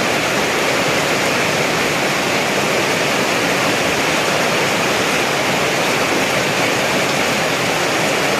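Steady, loud rush of water in a heavy downpour: rain and runoff pouring without a break.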